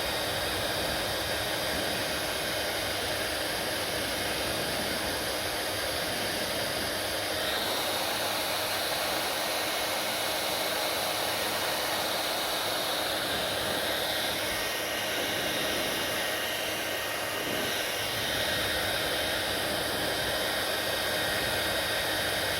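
Hair dryer running steadily with a constant whooshing blow and a faint steady whine; its sound shifts slightly a few times, about 7 s, 14 s and 18 s in.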